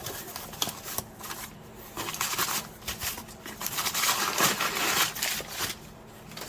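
Rustling and crinkling of the packaging of a suspension shackle kit being handled, with a few light clicks of parts. The rustling is loudest from about two seconds in until shortly before the end.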